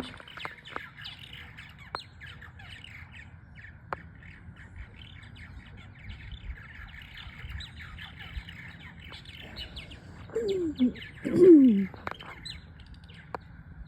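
A colony of purple martins chattering: many quick, overlapping chirps and gurgling notes. About ten and eleven seconds in, two louder, lower calls slide down in pitch.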